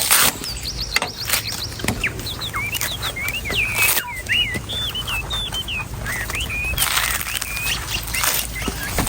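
A knife striking and cutting the hard husk and shell of an old coconut in irregular sharp chops, with songbirds chirping rapidly between the strikes.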